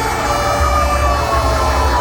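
Fire engine sirens wailing together: two slow gliding tones, both falling gradually and out of step with each other, over a steady low rumble.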